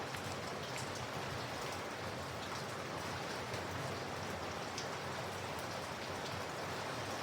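Steady rain falling: a continuous hiss with scattered sharp ticks of individual drops hitting a surface.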